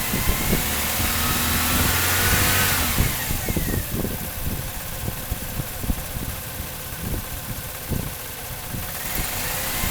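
1997 Chevrolet Cavalier's 2.2-litre four-cylinder engine running rough with irregular, uneven pops, misfiring because a failing ignition control module lets only one of its two coil packs fire. The revs rise about two seconds in and fall back, then it idles unevenly, picking up again near the end.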